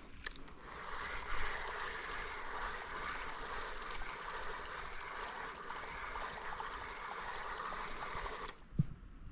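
Water trickling and gurgling steadily. It stops abruptly near the end, and a single low thump follows.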